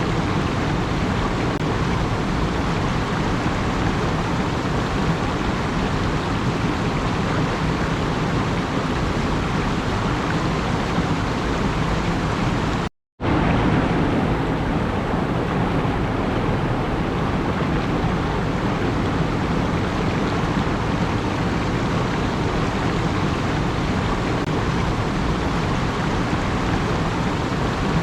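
Steady, even rushing noise with no distinct events, cut by a sudden brief dropout to silence about 13 seconds in.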